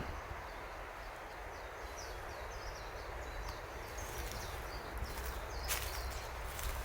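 A small bird calling in a quick run of short, high chirps over steady outdoor background noise, with a rustle near the end.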